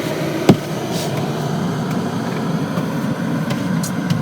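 A car's interior while driving: a steady engine and road rumble, with one sharp loud knock about half a second in and a few faint clicks later.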